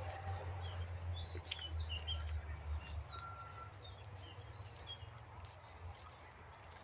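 Small songbirds chirping and calling in woodland, short high notes scattered throughout. Under them a low steady rumble that fades after about three seconds.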